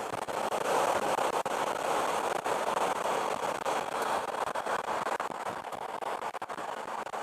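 Wind and road noise from a motorcycle ridden at motorway speed, picked up by the rider's helmet microphone: a steady rushing noise.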